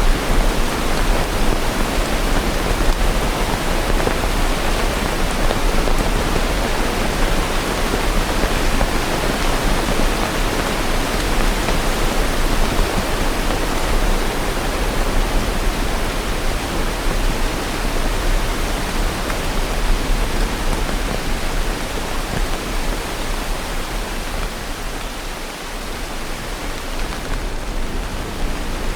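Steady rain falling, an even, dense hiss without distinct drops or thunder.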